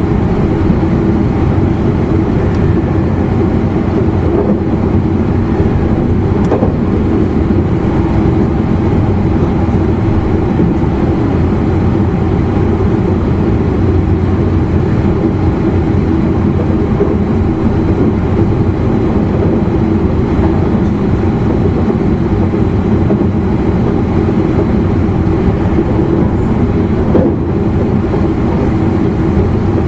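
Steady running noise inside an E259 series Narita Express motor car travelling at speed: an even low rumble of wheels on rail with a steady hum under it. Two faint knocks, about six seconds in and near the end.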